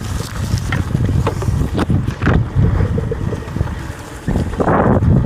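Wind buffeting the microphone of a rider on a Talaria electric dirt bike: a heavy, uneven rumble with scattered clicks and knocks, louder near the end.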